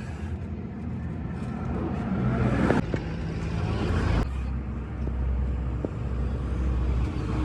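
Motor vehicle engine running, its low hum shifting in pitch about three and four seconds in.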